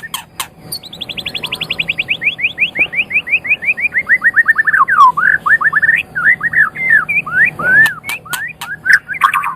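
White-rumped shama (murai batu) singing: a long rapid trill of repeated down-slurred whistled notes, about ten a second, that slowly falls in pitch over about four seconds, then varied whistled phrases with sharp clicks near the end.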